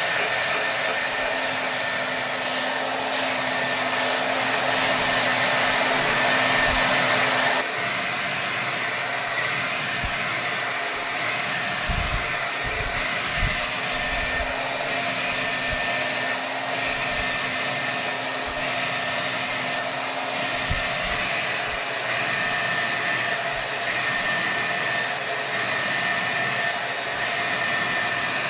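Hair dryer running at full power: a steady rush of air with a high whine running through it. About seven or eight seconds in it steps down slightly in loudness, and a few brief low thumps come midway.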